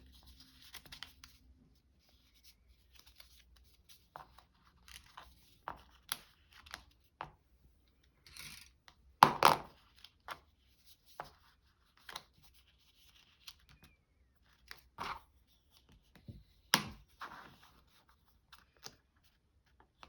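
Paper being folded back and forth into a concertina and creased down by hand: scattered short rustles and scrapes, the loudest a little before halfway and again about three-quarters through.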